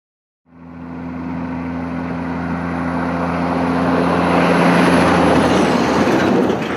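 A vehicle's engine that starts about half a second in and grows steadily louder, as if approaching, with a steady low hum under a rising rush of noise. Near the end it drops away.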